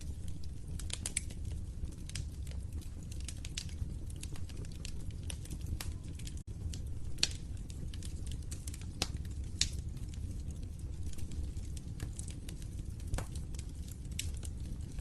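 Wood fire in a fireplace crackling, with irregular sharp pops and snaps, a few louder ones, over a steady low rumble of the flames. The sound drops out for a split second about six and a half seconds in.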